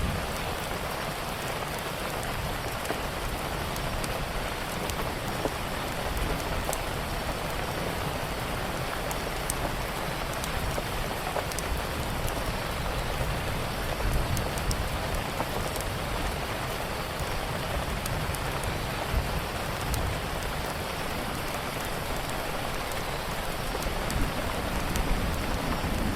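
Steady rain with a low rumble underneath, mixed with scattered small sharp crackles from a wood fire.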